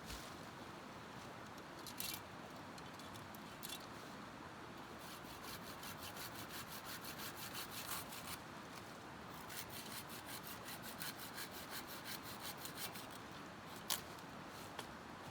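Fast rhythmic scraping strokes, as of hand work on wood, in two runs of a few seconds each, with a few separate clicks between them.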